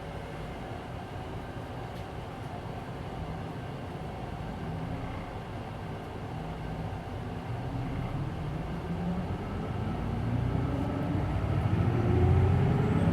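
Hino Blue Ribbon City Hybrid bus's diesel engine, heard from inside the cabin, running low and steady. Over the last few seconds it rises in pitch and gets louder as the engine revs up under acceleration.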